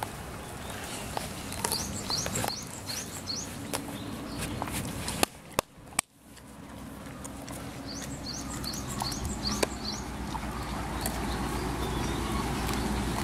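A small bird calling in the background: two runs of about half a dozen quick, high chirps. Under it is steady outdoor noise with scattered clicks, and three sharp clicks a little past halfway with a brief drop in sound between them.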